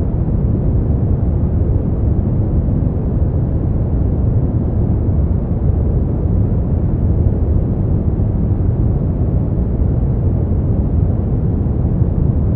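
Steady, unchanging noise of a sleep-aid track, deep and rumbling rather than hissy, without breaks or variation.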